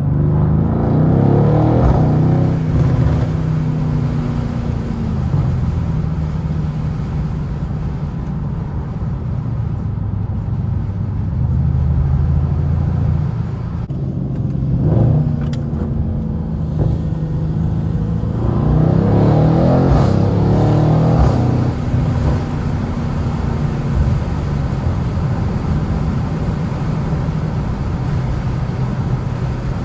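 Mercedes-AMG C63's twin-turbo V8 engine and exhaust on the road, running steadily with two louder pulls under acceleration, one about a second in and one about twenty seconds in.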